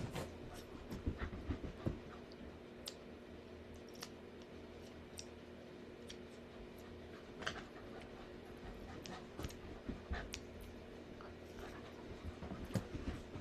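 Faint scattered clicks and small taps over a steady low electrical hum.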